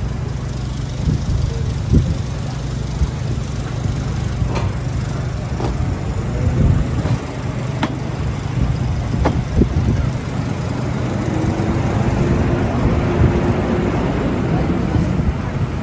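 Busy city street ambience: a steady low traffic rumble with scattered sharp clicks and knocks, and a faint steady hum in the second half.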